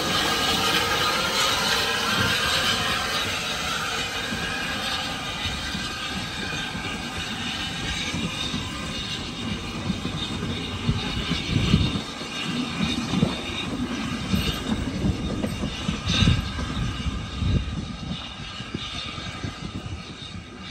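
Narrow gauge steam train running on the line, gradually fading as it draws away, with a few low thumps about halfway through.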